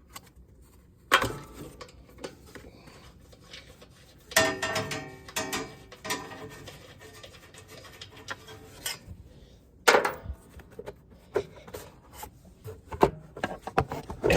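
Hand work on a lawn mower being taken apart: irregular scraping and rubbing of parts, with a sharp knock about a second in, a longer stretch of scraping from about four to six seconds, another knock near ten seconds, and scattered small clicks.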